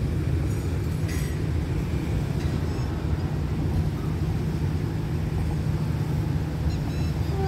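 Steady low rumble with a low engine hum from an approaching diesel train.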